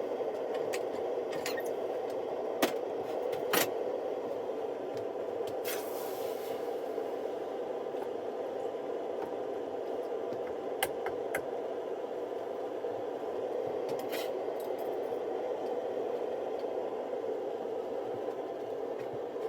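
A few light metallic clicks and scrapes as steel tong handles are bent back and forth in a foot vise, over a steady low hum of shop noise.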